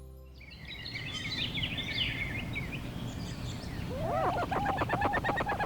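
Birds chirping and singing over a steady low outdoor rumble, with a quick run of repeated calls in the last second and a half.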